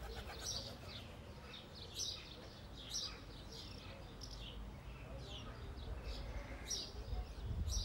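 Small birds chirping outdoors: short, high, falling calls repeated every second or so, over a low rumble that swells near the end.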